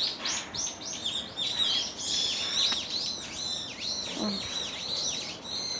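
Small birds chirping busily, many short overlapping chirps in quick succession.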